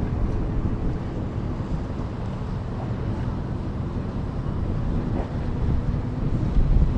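Wind buffeting the microphone outdoors, a low, uneven rumble with a faint steady hum underneath.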